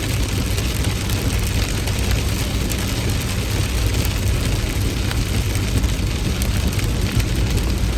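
Heavy rain falling steadily, a dense hiss of drops with a constant low rumble underneath.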